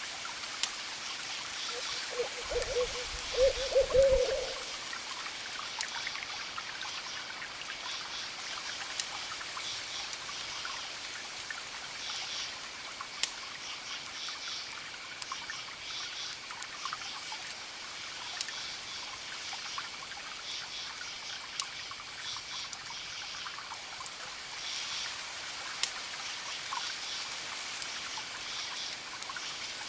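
Night ambience of crickets chirping in repeated pulses over a crackling campfire and the steady wash of distant ocean waves. About two to four seconds in, a low call sounds a couple of times, like an owl hooting.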